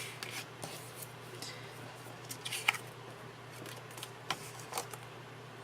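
Paper-crafting handling sounds: a few short clicks and brief paper rustles, scattered and irregular, over a faint steady low hum.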